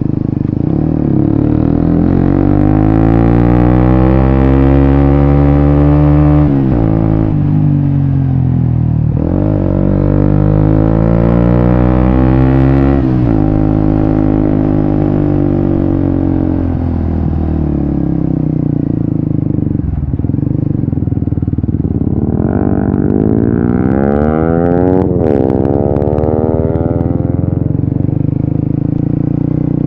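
Suzuki GSX-S150's single-cylinder engine through a Quinze Big Volume aftermarket exhaust, under way: the engine note twice climbs in pitch and drops suddenly at a gear change, then holds and eases off, with a few short rises and falls in revs later on.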